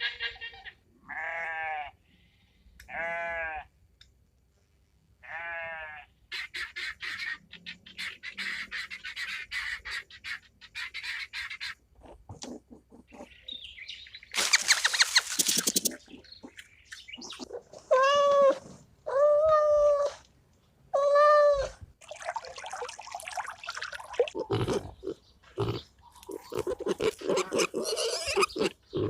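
A run of different animal calls: short pitched cries that rise and fall, heard three times early on and three more times later, with stretches of chattering, rustling animal noise between them.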